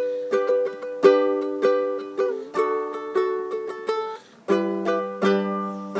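A solo acoustic string instrument strumming chords in an instrumental break between sung lines, with a short pause about four seconds in.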